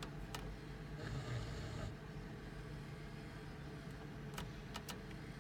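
Low steady rumble inside an SUV cabin, with a few sharp clicks of the dashboard radio's buttons being pressed while it is tuned to an FM station: one about half a second in and three in quick succession near the end.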